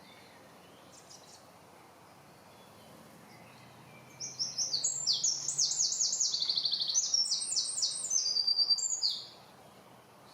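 A small songbird sings one loud, rapid song of quick, high, down-slurred notes with a fast trill in the middle. It starts about four seconds in, lasts about five seconds and stops abruptly, over faint outdoor background noise.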